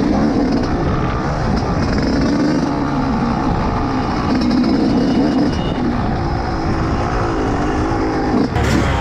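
Dirt bike engines running, their pitch rising and falling as the throttle is worked. About eight and a half seconds in, the sound changes abruptly to a single engine revving in quick rises and falls.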